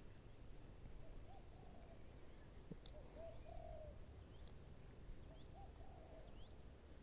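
Faint dove cooing: a short two-part coo repeated three times, about every two seconds, over a steady high drone of insects.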